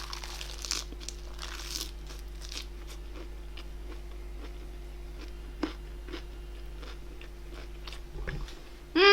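Close-miked eating: crunchy bites and chewing, loudest in the first two seconds, then small mouth clicks over a steady electrical hum. A brief voiced sound with falling pitch comes right at the end.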